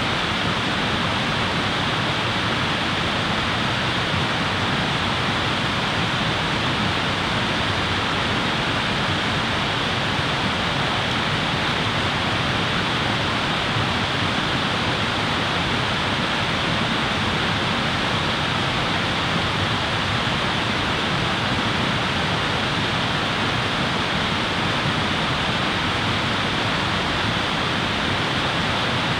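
Steady, even rushing of running water, like a stream or waterfall, with no breaks or changes.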